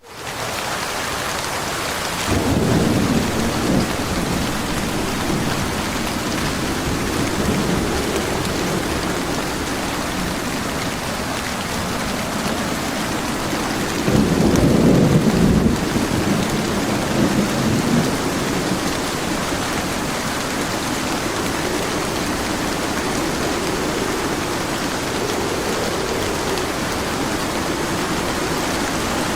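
Steady rain pouring down, with low rolls of thunder: a louder rumble about two seconds in, another about halfway through, and fainter ones in between.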